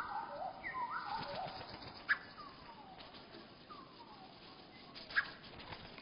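Small birds' calls slowed to a third of their speed, so they come out lower and drawn out: a quick run of repeated short notes, then two long falling notes. Two sharp clicks stand out, a couple of seconds in and near the end.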